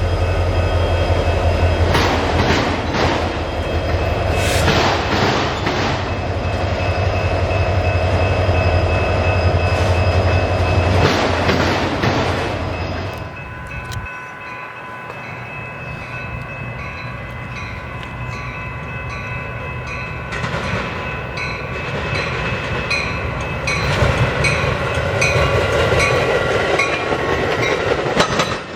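Diesel freight train passing: a heavy engine rumble for about the first half, which then drops away as the cars roll by with a rhythmic clatter of wheels over rail joints and steady high ringing tones.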